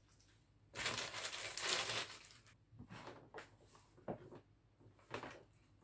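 A laptop power adapter and its cable being handled: a rustle of packaging lasting a second or two, then a few light clicks and knocks as the adapter brick and cable plug are moved about.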